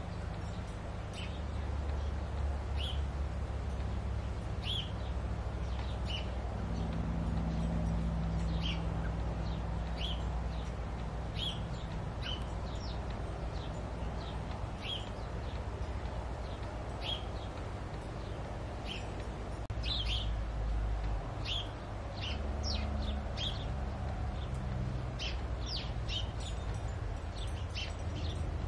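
A bird repeating short, high, downward chirps, one every second or two, coming closer together later on, over a steady low rumble.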